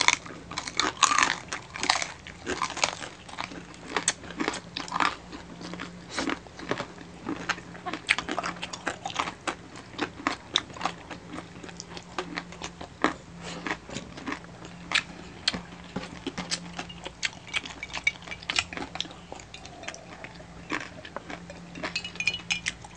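Close-miked chewing of crispy pata, deep-fried pork knuckle skin: a steady run of irregular crackling crunches with mouth sounds between them.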